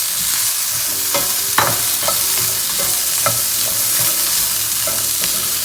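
Chopped potatoes and carrots frying with onions in hot coconut oil, a steady sizzle, while a spatula stirs and scrapes the pan in short strokes about every half second.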